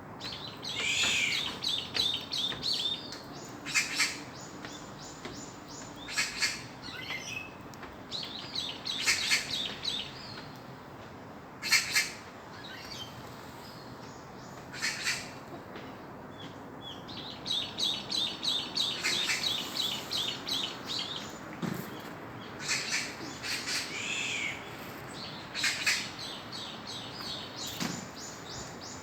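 Wild songbirds singing: rapid trilled phrases of quickly repeated high notes, a few seconds long and heard several times, with short sharp calls in between.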